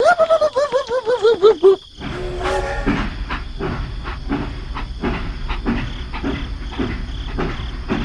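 A warbling tone pulsing quickly and falling in pitch for about two seconds. Then a short train whistle, followed by steady rhythmic steam-train chugging with a light hiss as the toy locomotive and its wagons go by.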